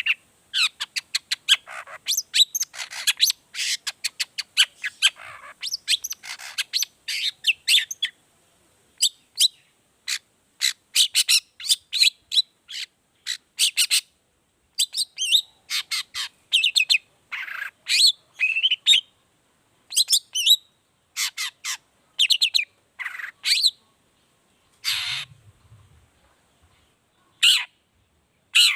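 Long-tailed shrike (cendet) singing: a fast run of short, sharp chattering notes, then separate short phrases with brief pauses between them.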